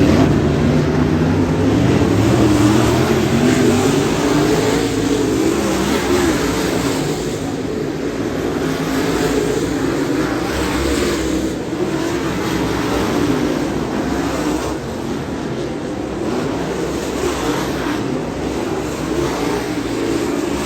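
Dirt modified race car's 'Pop Power 2.0' engine running hard on hot laps around a dirt oval. The engine pitch rises and falls continually as the car goes through the straights and corners.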